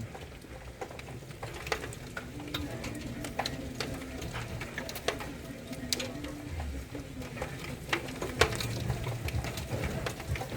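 Thunderstorm rain and wind, with scattered sharp ticks of drops striking a hard surface at irregular intervals over a steady low rumble.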